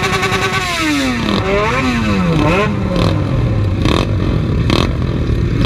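Motorcycle engine revved high and held briefly, then falling away, with two quick throttle blips before settling to a lower steady run.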